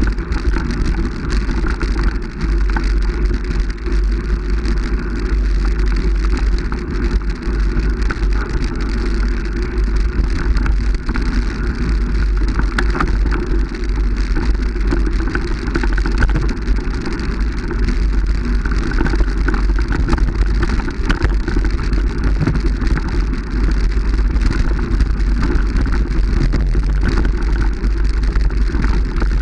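Steady, loud rumble and crackling noise throughout, like wind buffeting the microphone and road noise of a vehicle on the move.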